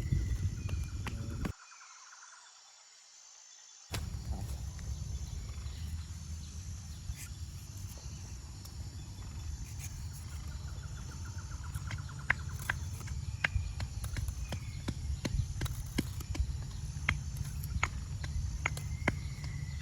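Outdoor ambience: a steady low rumble with scattered sharp knocks and taps, and a few short bird chirps. The sound drops away almost entirely for about two seconds near the start, then returns.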